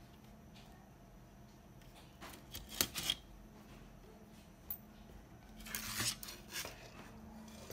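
Light metallic clicks and scrapes of small hand-held objects, in two short bursts about two seconds in and again around six seconds, over a faint steady low hum.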